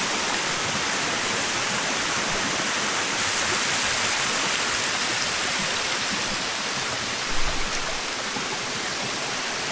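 Steady rush of a waterfall cascading over rocks into pools, with a brief low rumble about seven seconds in.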